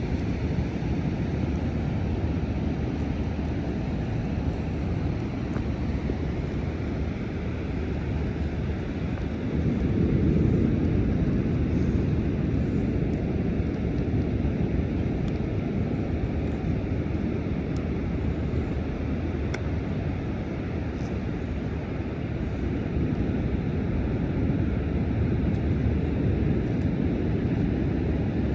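Low, steady rumble of wind on the microphone and rough surf on the beach, swelling about ten seconds in and again near the end.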